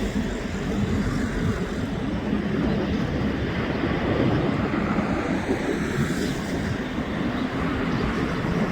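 Airbus A320's twin turbofan engines during takeoff, a steady low rushing noise with a faint hum.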